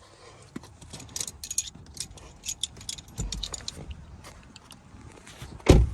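Metal clinks and rattles from tools working on a car battery in a trunk, with a heavy thump near the end.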